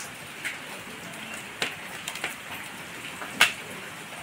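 Steady rain falling, an even hiss with scattered sharp taps of drops, the loudest about three and a half seconds in.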